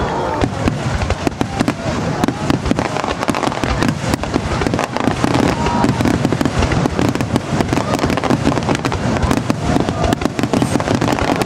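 Aerial fireworks shells bursting in a rapid, continuous barrage, with many bangs and crackles overlapping so closely that there is no pause between them.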